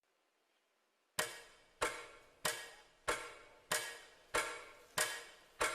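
Clock ticking: after about a second of near silence come eight even, sharp ticks, a little more than one and a half a second, each with a short ringing tail.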